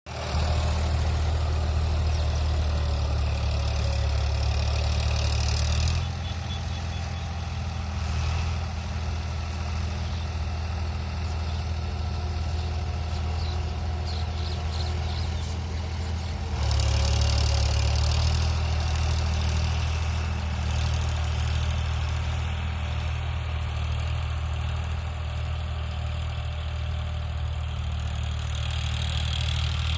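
A 50 hp Eicher 551 tractor's diesel engine running steadily with a low, even hum. It is louder for the first six seconds, drops suddenly, then is louder again from about seventeen seconds in.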